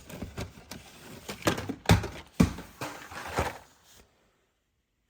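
Die-cast toy cars in blister packs clacking and knocking as they are handled and sorted in a plastic tub, with two sharp loud knocks about two seconds in. The sound cuts off suddenly about four seconds in.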